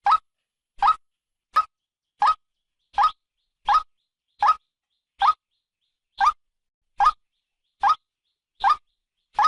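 Female white-breasted waterhen calling: short single notes, each rising slightly in pitch, repeated steadily about every three-quarters of a second with silence in between. This is a lure call for trapping waterhens.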